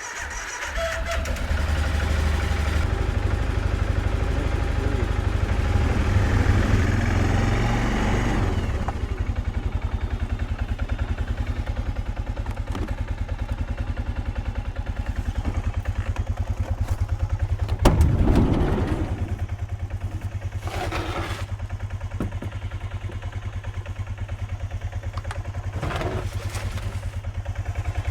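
A small engine idling with a steady low pulse, faster and louder for the first eight seconds or so, then settling to a lower idle. There is a short clattering knock about eighteen seconds in.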